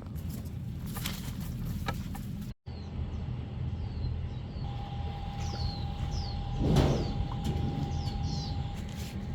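Steady low rumble, with a sudden break about two and a half seconds in. Afterwards, birds chirp repeatedly over it, and there is a short louder swell of noise near the middle.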